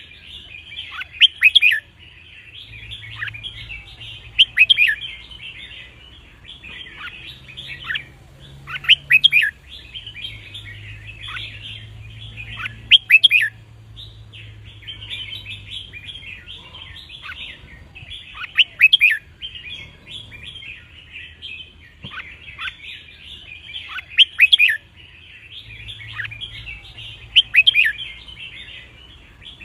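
Red-whiskered bulbuls singing: loud, short whistled song phrases repeated every few seconds over continuous chattering.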